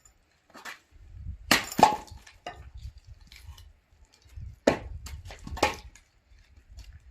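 Firewood being split with an axe: sharp chopping strikes with wood cracking, two close together about a second and a half in and two more about a second apart near the five-second mark.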